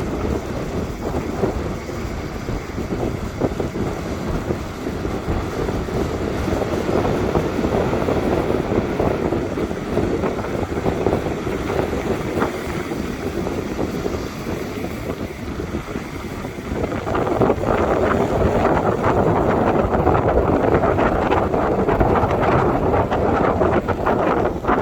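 Wind buffeting the microphone over the rushing noise of the sea, an even roar that grows louder about two-thirds of the way through.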